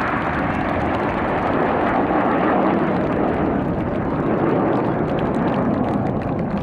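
Red Arrows BAE Hawk T1 jets flying past, a loud continuous jet rush whose pitch slowly falls as they pass.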